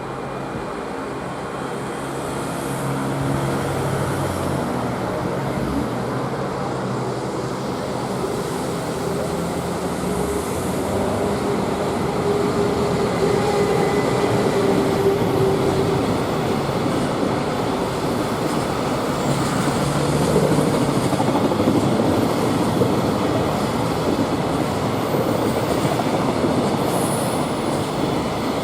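Electric freight train passing close by: a continuous rumble of wheels on the rails, growing a little louder over the first half, with a faint thin squeal about halfway through.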